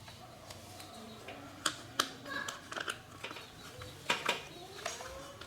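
Irregular sharp clicks and knocks, a few scattered through the stretch, over a low background.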